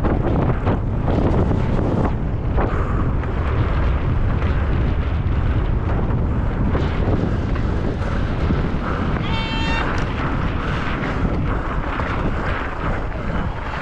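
Mountain bike descending rough ground at speed: steady wind rush on the microphone over a constant rumble, with many knocks and rattles from the bike. A brief high squeal cuts in about nine seconds in.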